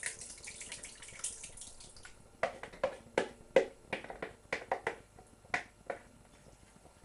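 Tinned tomatoes tipped from the can into a cooking pan with a soft, wet hiss. Then, from about two seconds in, a quick run of about a dozen sharp knocks as the tin is tapped and emptied into the pan.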